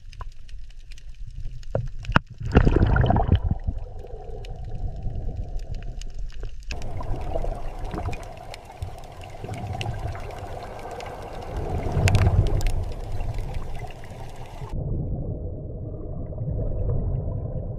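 Underwater ambience: a muffled low rumble with bubbling and gurgling, swelling louder twice. The sound changes abruptly twice, and near the end the higher sounds drop away.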